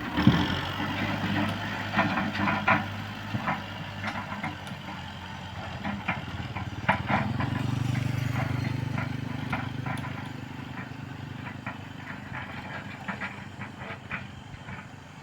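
Kubota M6040S tractor's diesel engine running steadily while ploughing a rice field, over many irregular clanks and rattles. The engine note grows louder for a few seconds around the middle, then eases.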